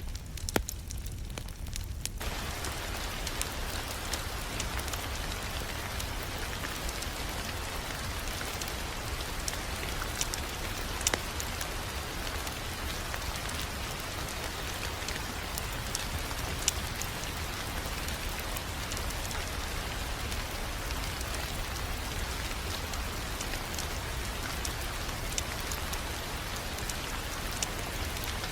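Wood fire crackling in a fireplace: a steady dense hiss with scattered sharp pops. The hiss fills out about two seconds in.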